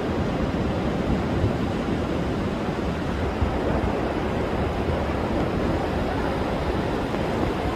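Rough sea surf breaking continuously on a sandy beach, with wind, as a steady, even rush of noise heavy in the low end: heavy seas under a high-wave advisory.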